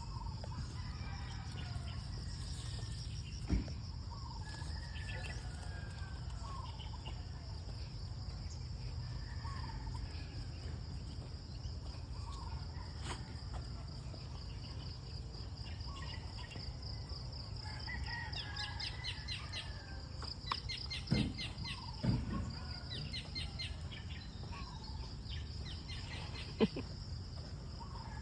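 Countryside ambience: a steady high-pitched insect drone, with short bird calls repeating every couple of seconds. In the second half come runs of rapid, rhythmic chirping, and a few sharp knocks sound along the way.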